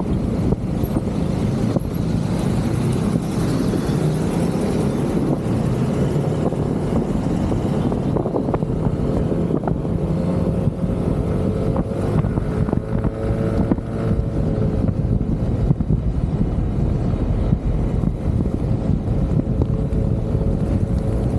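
Motorcycle riding at steady speed: engine and road noise mixed with wind rush on the microphone. A faint wavering tone comes in for a few seconds midway.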